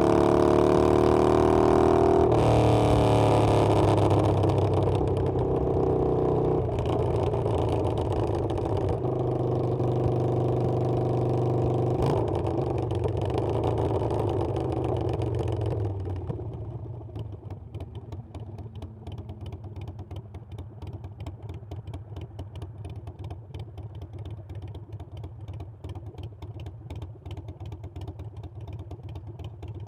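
Harley-Davidson Sportster Iron 883's air-cooled V-twin engine running hard, its pitch stepping with several gear changes; about halfway through the throttle closes and it drops to a much quieter, even pulsing.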